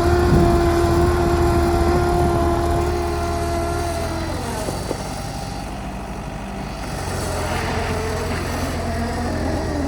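Engine of a Bobcat Toolcat 5600 utility machine running, with a steady high whine that drops down and fades about four seconds in; the engine keeps running more quietly, then picks up again near the end. A single click about five seconds in.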